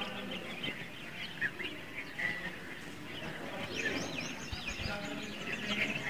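Small birds chirping and calling all through: a busy mix of short chirps, with a flurry of quick, high, falling notes about four seconds in.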